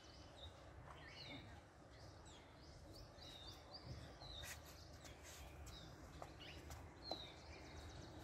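Near silence with faint birds chirping: many short, high chirps that drop in pitch, scattered throughout over a low background hum.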